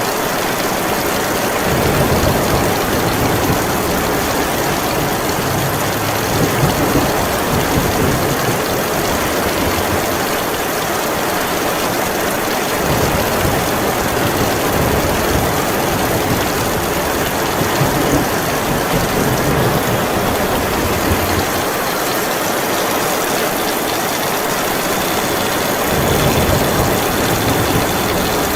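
Heavy rain falling steadily, with a low rumble that swells and fades several times: from about two seconds in to about thirteen seconds, again from about fifteen to twenty-one seconds, and again near the end.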